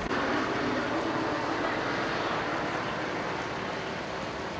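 Helicopter flying overhead: a steady rush of engine and rotor noise that fades slightly toward the end.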